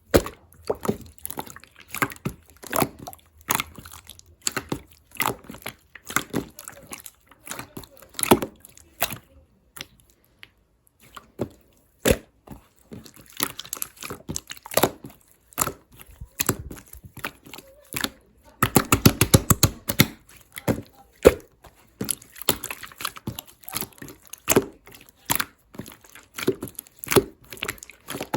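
Irregular clicks, knocks and crinkling, like things being handled, with a dense burst of sharp knocks about nineteen seconds in.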